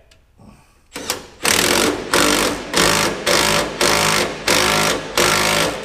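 Impact wrench running down a nut on the truck's exhaust flex-pipe joint in a quick series of short trigger pulls, about eight loud hammering bursts starting a second and a half in, the last one held longer.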